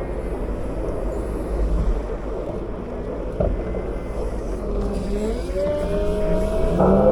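Cat 908 compact wheel loader's diesel engine running with a low rumble, then revving up from about five seconds in, its pitch rising. A short knock about three and a half seconds in.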